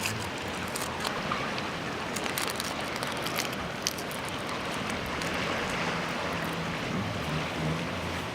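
Steady wind blowing over the microphone, with scattered faint ticks and a faint low hum that comes and goes, strongest in the second half.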